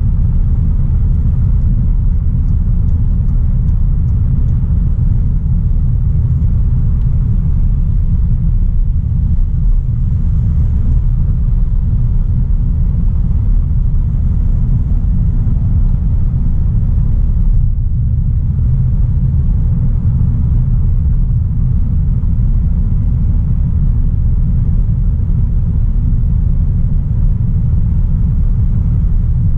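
Steady low rumble of a 2016 Audi A3 Sportback 1.4 TFSI being driven at an even pace: road and tyre noise mixed with its turbocharged four-cylinder engine. It shows no change in pitch or level.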